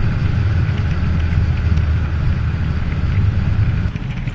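Steady low rumble of wheels rolling fast over asphalt mixed with wind at speed, easing off slightly about four seconds in.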